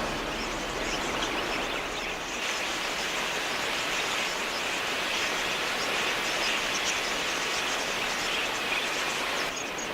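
A large flock of budgerigars chattering, many short high chirps overlapping into a steady din.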